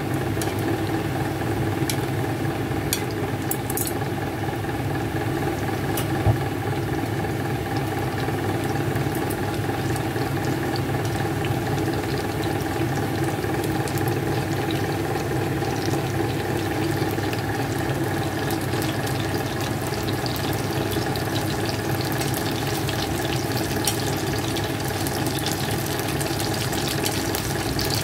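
Eggplant slices sizzling in oil in a nonstick frying pan, steady throughout, over a constant low mechanical hum. A few light clicks come from chopsticks turning the slices, the clearest about six seconds in.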